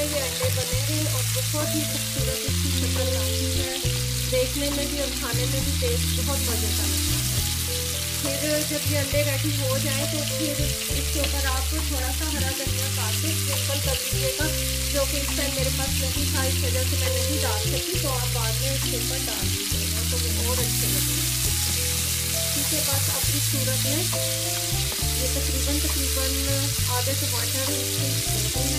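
Tomatoes and green chillies sizzling in hot oil in a frying pan, with a wooden spatula stirring them at the start. Background music with slow, sustained bass notes plays along.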